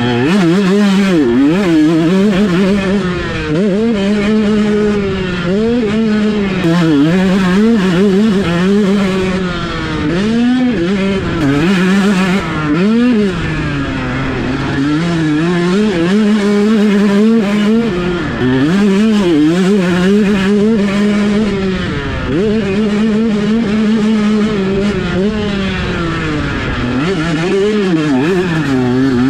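Dirt bike engine being ridden, its note rising and falling over and over as the throttle is opened and closed.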